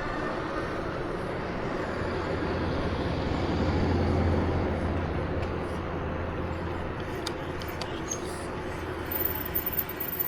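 Steady vehicle running noise with a low hum that swells about four seconds in, and a few sharp clicks near the end.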